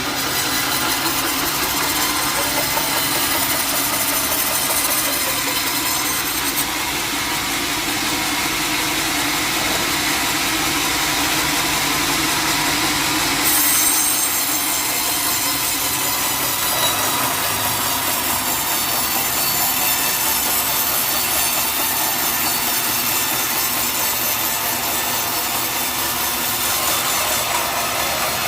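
Sawmill saw cutting through teak wood, running steadily without a break.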